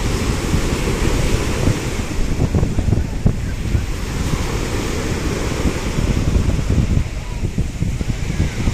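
Sea waves washing in, with a hiss that swells and eases, and wind buffeting the microphone in a constant low rumble.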